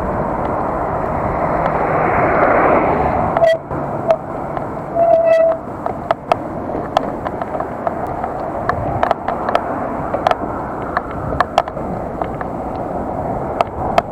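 Wind and road noise from a bicycle ride, with a passing vehicle's rush swelling over the first few seconds and cutting off sharply. Short high tones follow about four and five seconds in, and sharp clicks and rattles come from the bike throughout.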